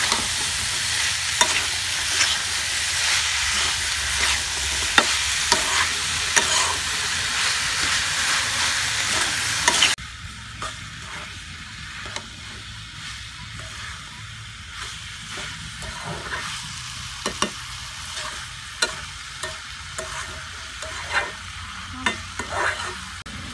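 Diced potatoes and minced meat sizzling in oil in a steel karahi while a metal spatula stirs and scrapes them, with sharp clicks of the spatula against the pan. The sizzle is loud for about ten seconds, then drops suddenly to a quieter sizzle with frequent spatula knocks.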